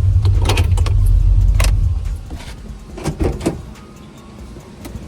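Car engine running with a deep, steady exhaust rumble that cuts off about two seconds in, as if switched off, followed by several short clicks and knocks like door and handle sounds. The owner suspects an exhaust leak, possibly at the donut gasket.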